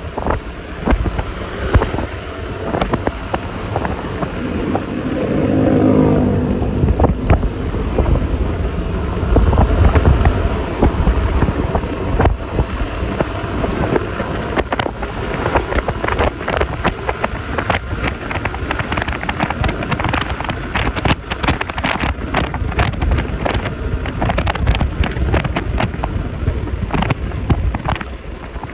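Riding noise from a Yamaha Lexi LX 155 scooter: wind buffeting on the microphone with many sharp gusty clicks, over a steady engine and tyre rumble. About six seconds in, a pitched engine hum swells and then fades.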